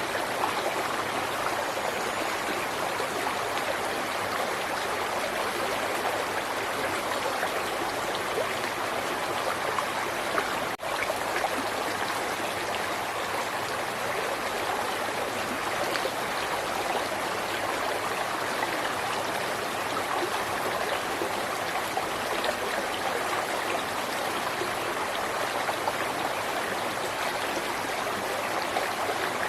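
River water flowing, a steady rushing and babbling, broken once by a momentary drop-out about eleven seconds in.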